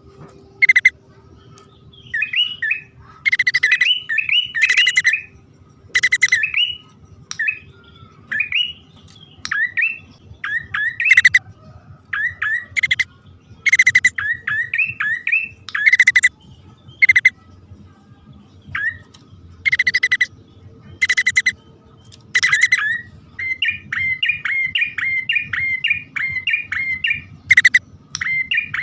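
Prenjak poci (forest prinia) male and female calling in turn: harsh, buzzy calls repeating every second or two, interleaved with quick rising chirps, with a fast run of chirps near the end. This is the call used to lure prinias.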